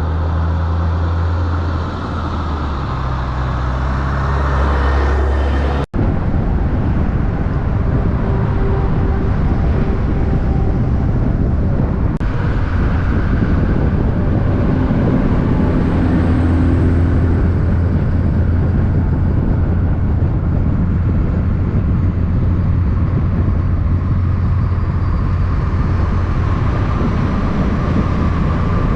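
Heavy truck engines running, a steady low engine note under road and traffic noise, with a sudden brief dropout about six seconds in.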